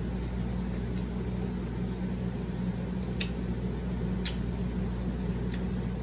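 Steady low background hum, with three faint short clicks in the middle, typical of mouth sounds while chewing food.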